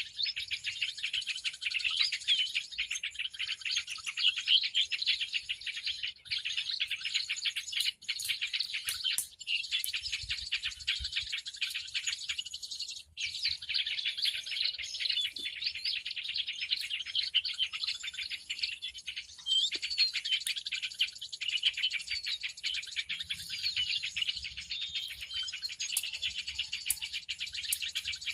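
Dense, continuous chorus of many small birds chirping and twittering, a recorded bird-lure call (suara pikat) played to draw in birds, with brief dropouts a few times.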